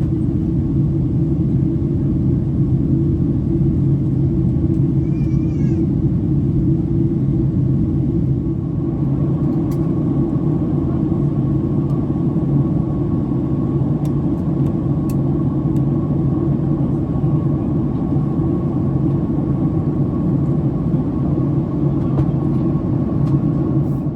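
Steady cabin drone of a Boeing 767-300ER in climb after take-off: engine and airflow noise, deep and even, with a thin steady whine above it that grows a little stronger about a third of the way through.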